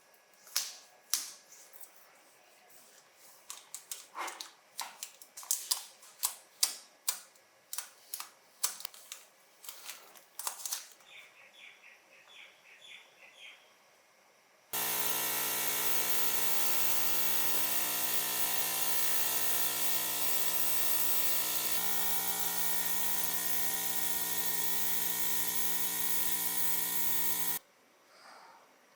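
Small hard parts clicking and tapping for about ten seconds. Then a small electric motor starts and runs steadily for about thirteen seconds before cutting off.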